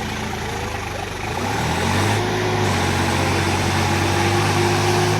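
Tractor diesel engine running; its pitch sags in the first second and a half, then climbs back up and holds steady and slightly louder.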